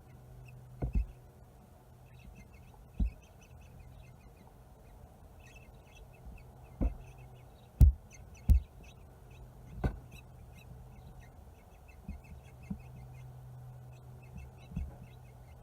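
House finches at a nest in a door wreath: about ten irregular low thumps and bumps as the birds move against the wreath, with faint, rapid high peeps throughout.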